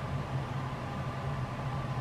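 Steady low hum with an even hiss, unchanging throughout, with no crackles or pops.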